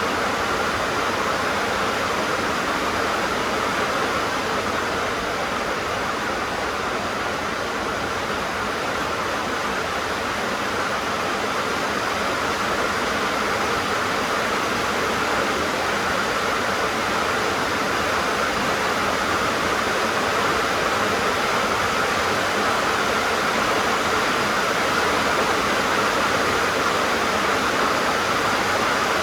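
Heavy rain falling on a tin roof, a steady dense drumming with no let-up.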